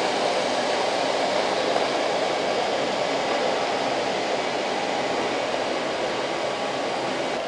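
iLife V1 robot vacuum running, a steady whir from its suction motor.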